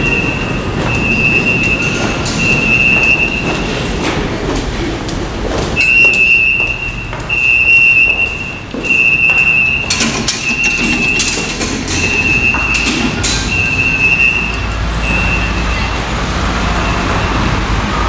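New York City subway L train running on the rails, with a high squeal that comes and goes in even pulses about once a second. A run of sharp clanks over the track comes around the middle.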